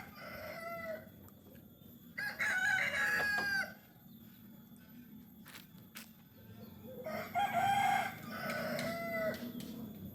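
A rooster crowing repeatedly: the end of one crow at the start, then two full crows about five seconds apart, each ending on a long falling note.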